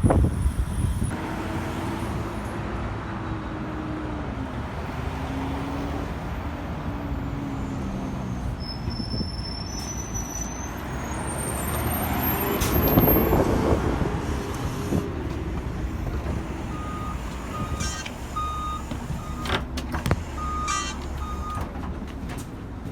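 Street traffic with a city bus pulling in: a steady engine rumble with a gliding engine tone, swelling to a peak about halfway through, then a run of short high electronic beeps.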